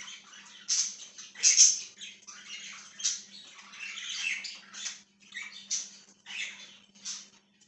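A flock of budgerigars chattering and chirping in quick, irregular bursts of high, scratchy notes.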